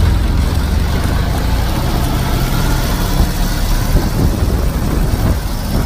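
Motorcycle engine running steadily, a loud low rumble.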